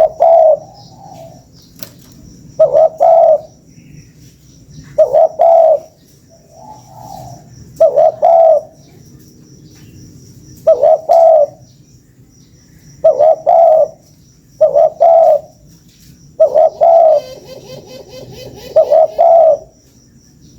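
Spotted dove (tekukur) cooing as a lure call: short phrases of a few low coos, repeated about every two to three seconds, with fainter coos between them.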